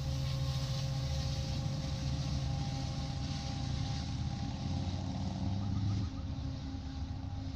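Diesel locomotive engine running steadily with a deep, even hum; the sound drops a little about six seconds in.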